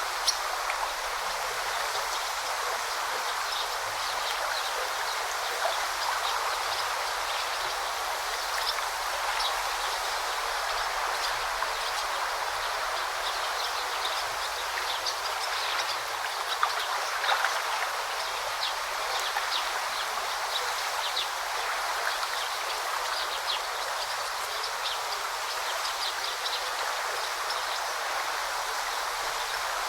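Stream babbling steadily over stones, with small birds chirping briefly here and there, and a single sharp tick just after the start.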